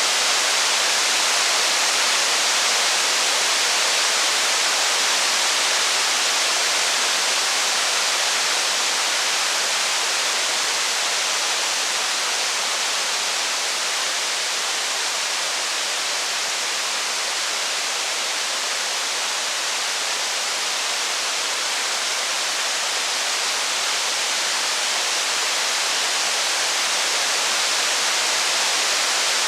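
Steady rain, an even hiss without a break, with no crackles or thunder standing out.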